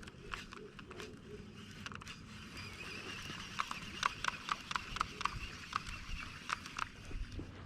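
Irregular light clicks and ticks, a few a second, from a fishing reel and rod being worked while a topwater frog lure is retrieved.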